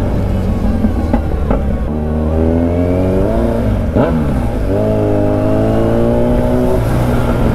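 Kawasaki Z1000 inline-four motorcycle engine accelerating under way. The pitch climbs about two seconds in, dips sharply at a gear change near four seconds, then climbs again through the next gear before levelling off.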